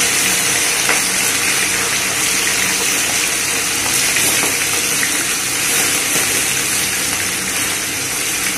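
Masala-marinated chicken pieces sizzling steadily as they fry in hot oil.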